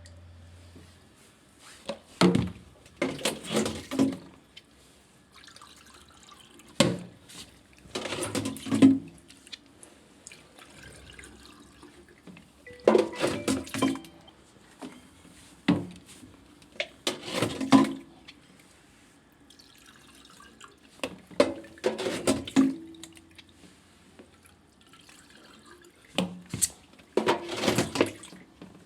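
Water splashing and pouring in short bursts, about ten of them a few seconds apart.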